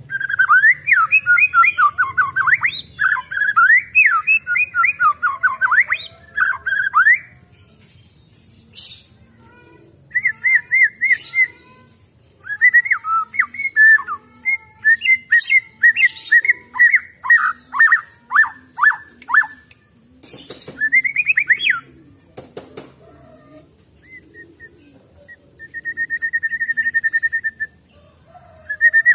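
White-rumped shama (murai batu) singing: bouts of rapid, varied whistled phrases with short pauses between them, and a steady buzzy trill near the end.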